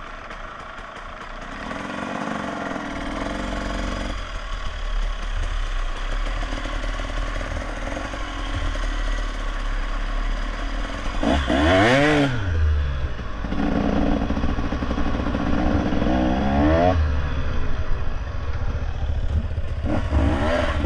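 Motorcycle engine running, revved up and let back down about three times, near the middle, after about 16 seconds and near the end.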